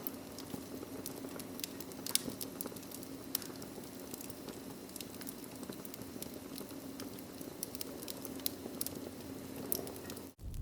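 Wood fire crackling in a fireplace: a steady hiss with many irregular sharp pops and snaps. Just before the end it cuts out for an instant and turns into a low rumble.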